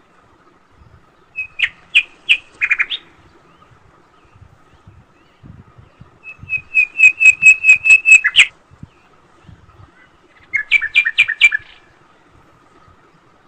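A bird chirping in three bouts of quick, sharp repeated notes, the middle bout the longest at about five notes a second.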